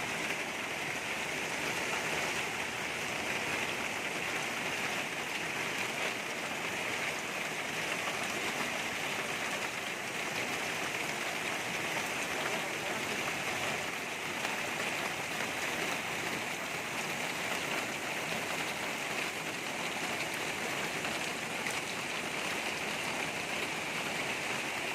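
Steady rain falling: an even, unbroken hiss at a constant level throughout.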